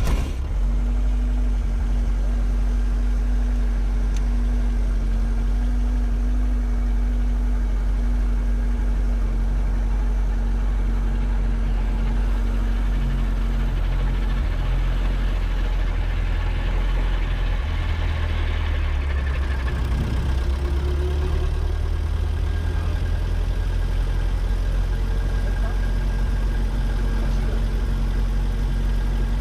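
Robinson R22 helicopter's piston engine running steadily just after start-up, its note shifting somewhat about halfway through.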